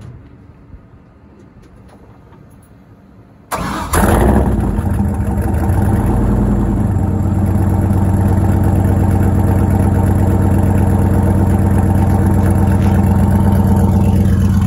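Turbocharged 5.3-litre LS V8 with decapped 80 lb/hr truck injectors cold-starting: about three and a half seconds in it cranks for barely half a turn and fires right up, flares for a couple of seconds, then settles into a steady, smooth idle. The decapped injectors give no hard starting or uneven running when cold.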